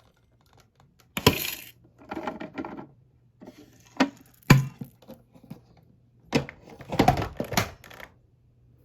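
Irregular plastic clicks, knocks and short rattles of vacuum cleaner parts being handled with the motor off, in a handful of separate bursts.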